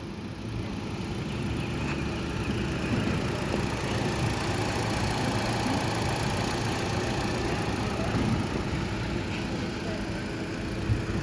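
2012 Hyundai Elantra 1.8-litre four-cylinder petrol engine idling steadily.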